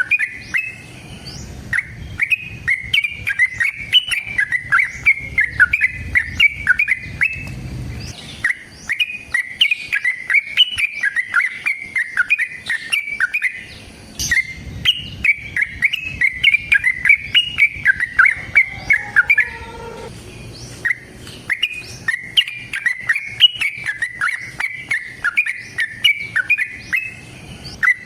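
Yellow-vented bulbul (trucukan) singing long, rapid runs of chirping notes, with short breaks every six seconds or so.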